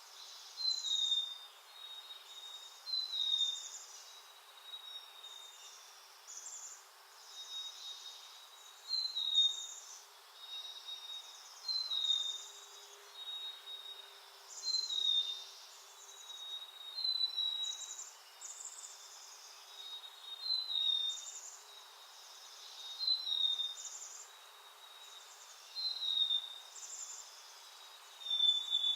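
A backyard songbird calling over and over, a short falling chirp with a buzzier, higher note, repeated about every two seconds, over a faint steady hiss.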